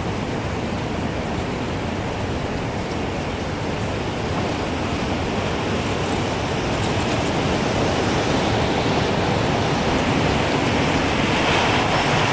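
Gusting wind blowing as a steady rushing noise that swells slowly louder toward the end.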